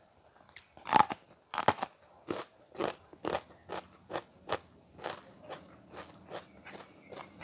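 A loud crunching bite into a raw green chili about a second in, followed by steady crunchy chewing at about two chews a second.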